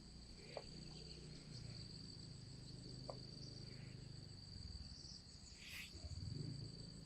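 Faint, steady high-pitched insect drone, as of crickets, over a low hum, with a couple of faint clicks.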